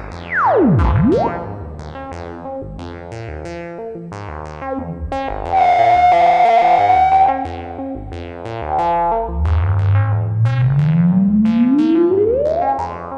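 Sequenced synthesizer bass line played through a Befaco FX Boy effects module: a fast stepped pattern of short notes, with a falling pitch sweep just after the start, a held higher tone midway, and a long rising glide over the last few seconds.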